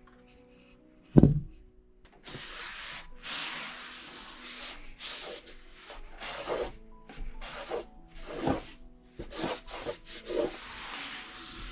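Repeated rubbing and wiping strokes on surfaces while a kitchen cupboard is cleaned, with a single knock about a second in. Background music with held notes plays underneath.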